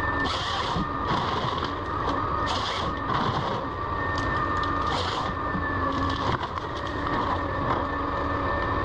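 Forestry harvester's engine and hydraulics running steadily under load, with short hissing bursts four times in the first five seconds.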